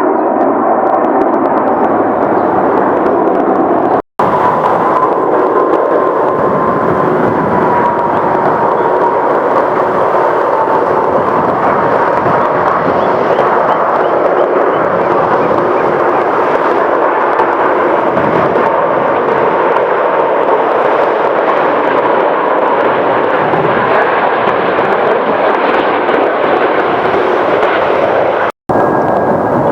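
Jet airliner engines, mostly an Airbus A330 passing, making a loud, steady jet noise with a clear fan whine that slides slowly lower. The sound drops out abruptly for an instant twice, at cuts between clips.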